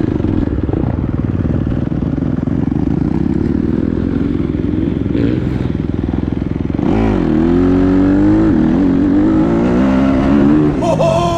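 Dirt bike engine running steadily. About seven seconds in it revs up and down repeatedly, its pitch rising and falling.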